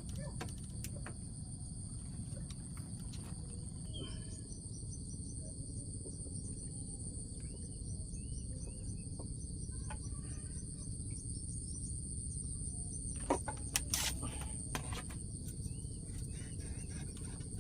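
Outdoor ambience dominated by a steady high-pitched drone of insects, over a low rumble, with short bird chirps here and there. A few sharp knocks come about thirteen to fifteen seconds in.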